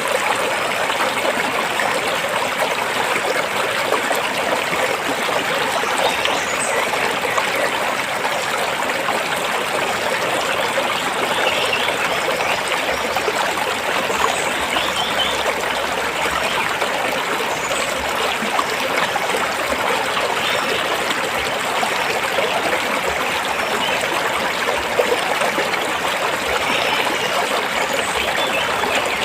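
Stream of water flowing steadily between rocks, an even rushing and trickling.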